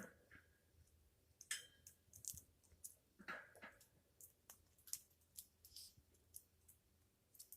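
African grey parrot preening, heard faintly: scattered soft beak clicks and small rustles, with a short soft sound about a second and a half in and another a little after three seconds.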